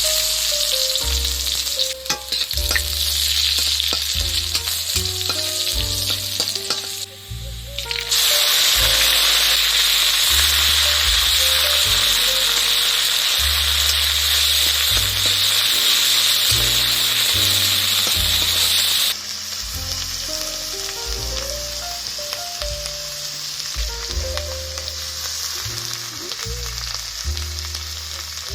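Food frying in hot oil, a steady sizzle that gets much louder about eight seconds in and drops back about eleven seconds later. Soft background music plays underneath.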